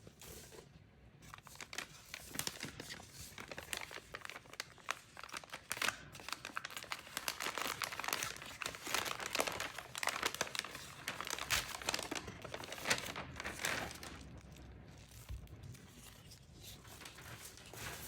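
Packaging crinkling and tearing as a parcel is unwrapped, a dense run of crackles that is busiest in the middle and thins out near the end.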